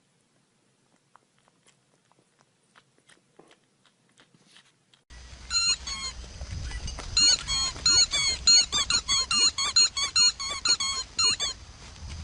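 A few faint clicks, then from about five seconds in a fast run of high-pitched squeaks, several a second, each bending in pitch.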